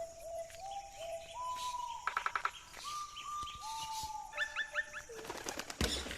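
Birds calling: a string of clear whistled notes, overlapping at different pitches, with a fast rattling trill about two seconds in. A sharp thump comes just before the end.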